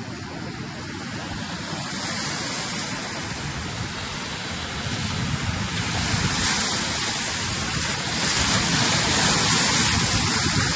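Sea surf and wind noise on the microphone, a steady rushing that grows gradually louder.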